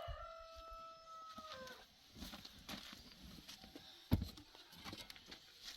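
A rooster crowing: one long held call that drops in pitch as it ends, about two seconds in. Scattered knocks and taps follow, the loudest a sharp knock about four seconds in.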